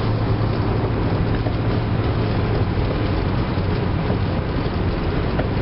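Steady road and engine noise inside the cabin of a 1997 Toyota Avalon on the move, a constant low drone with no distinct knocks.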